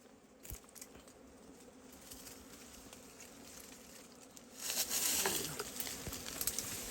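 Wild honeybees buzzing with a low steady hum. About two-thirds of the way through, loud rustling and crackling sets in over it.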